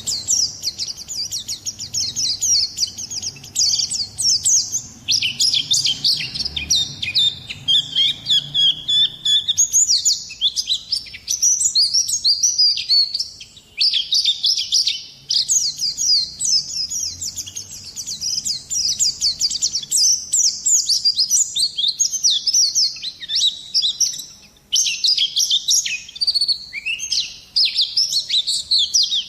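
White-eye (pleci) singing a fast, nearly unbroken twittering song of rapid high chirps, with a couple of brief pauses.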